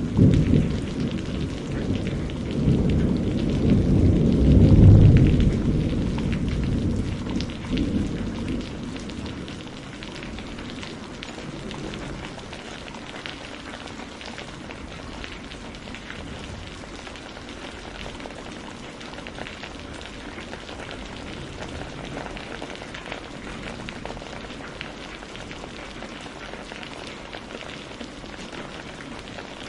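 Steady rain with a long rumble of thunder that swells to its loudest about five seconds in and dies away by about eight seconds, leaving rain alone.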